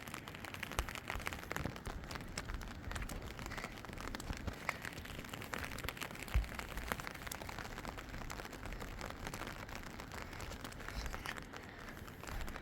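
Steady rain falling, with many small drop ticks and a single dull knock about halfway through.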